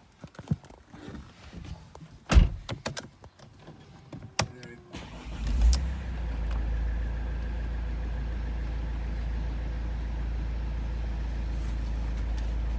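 A few clicks and knocks, one loud knock about two seconds in. Then, about five and a half seconds in, the Mercedes E220 CDI's four-cylinder diesel engine starts with a short surge and settles into a steady low idle.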